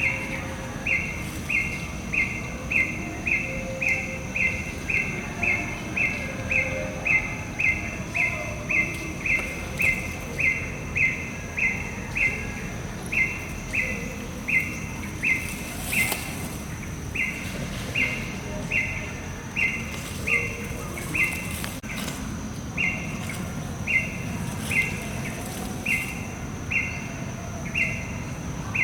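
A repeated animal call: short, even chirps at about one and a half to two a second, very regular, with brief breaks about 16 s and 22 s in. Under it a steady high thin whine and a low rumbling background.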